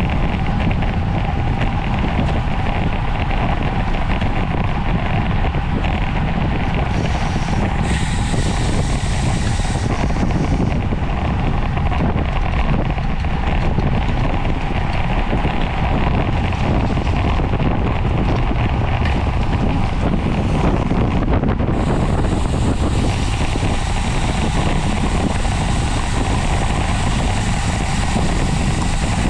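Steady wind noise buffeting the microphone of a camera carried on a bicycle riding at race speed.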